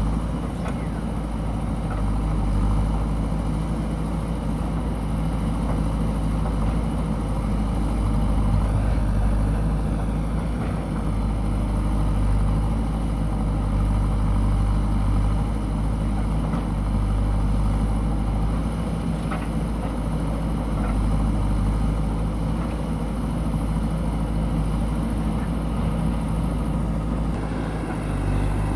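JCB backhoe loader's diesel engine running steadily at an even pitch, with a couple of faint knocks.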